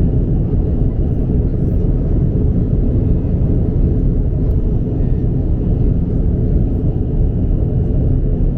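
Steady low rumble of an Airbus A330-200's cabin, engine and airflow noise, even and unbroken.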